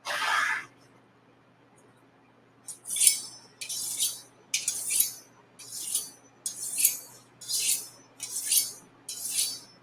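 Chef knife blade drawn down a honing steel: one scraping stroke, then after about two seconds a steady run of quick, bright metallic scraping strokes, about one and a half a second.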